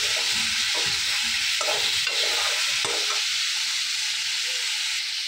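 Sliced tomatoes and onions sizzling in hot oil in a metal kadhai, with a ladle scraping and stirring through them for the first three seconds or so, then a steady sizzle alone.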